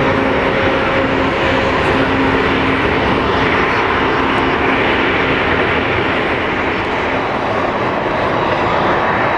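Boeing 777-200 twin-jet engines running loud and steady, a dense rush of jet noise. A humming tone in it fades out during the first couple of seconds.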